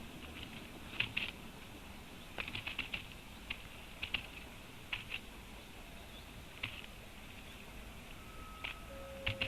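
Grey-headed woodpecker pecking: scattered light taps, some single and some in quick runs of three or four.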